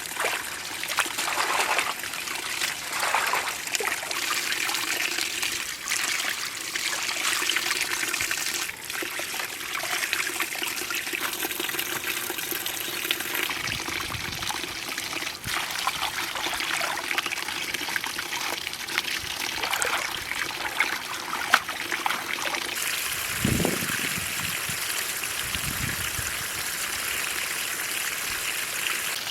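Water trickling and splashing steadily, with a few dull low thumps a little after the middle.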